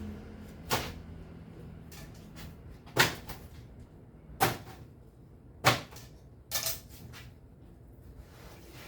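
Sharp knocks of hard objects, about five loud ones at uneven intervals of one to two seconds, with a few fainter taps between them.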